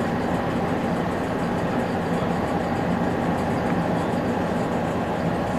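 Steady running noise of a Finnish Lättähattu (Dm7) diesel railbus heard from inside the passenger car: the diesel engine's even hum mixed with the wheels rolling on the rails at speed.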